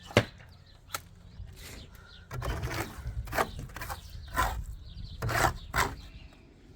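A sharp knock, then a run of irregular scraping strokes from hand tools working wet cement.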